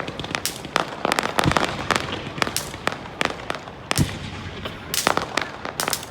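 Fireworks display: a rapid run of sharp cracks and pops over a continuous crackle, with a deeper boom about a second and a half in and a loud boom about four seconds in.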